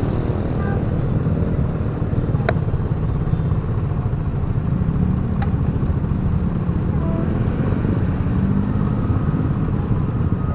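Motorcycle engine running steadily with road noise while riding, a dense low rumble, with two brief sharp sounds about two and a half and five and a half seconds in.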